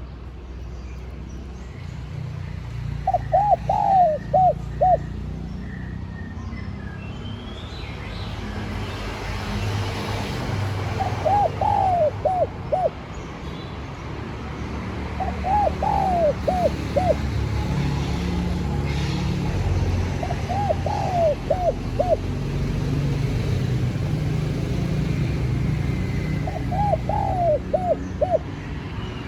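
Spotted dove cooing: five short phrases of several coos each, spaced a few seconds apart, over a steady low rumble.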